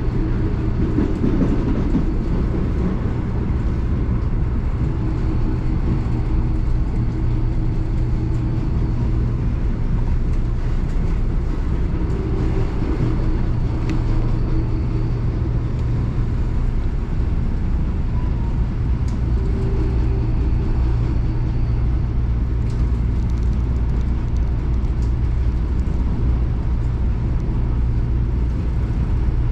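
CPTM Line 11-Coral electric commuter train running past on the track: a steady low rumble with faint steady tones above it.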